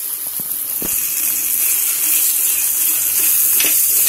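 Softened tomato chutney sizzling in hot oil in a kadhai. The sizzle grows louder about a second in, and a flat spatula stirring the pan gives a few light knocks.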